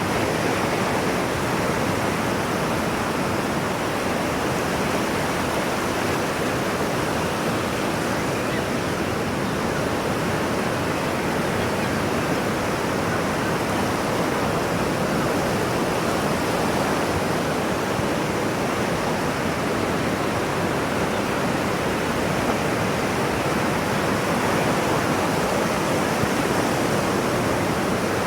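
Ocean-wave sleep sound: a steady, even rushing of surf noise with no separate waves rising and falling.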